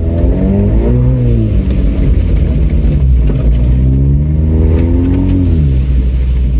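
Ford Bronco's engine running loud under throttle, its pitch rising and falling twice as the driver gets on and off the gas.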